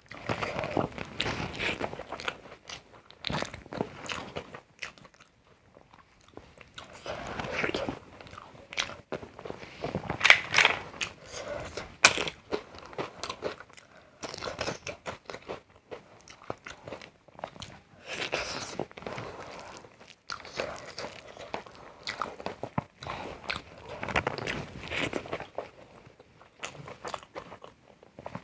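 Close-miked eating: a person biting and chewing crunchy food, with irregular bursts of crunching and short pauses between mouthfuls.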